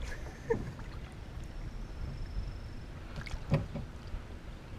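Low rumbling handling noise of someone moving about in a kayak on the water, with a short thud about half a second in and a louder thump about three and a half seconds in.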